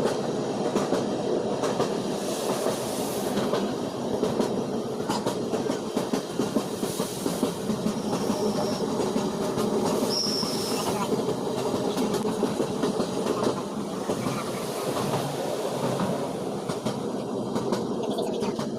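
Passenger train running on the rails, a steady rumble with the clatter of wheels over rail joints. Two brief high squeals come about eight and ten seconds in.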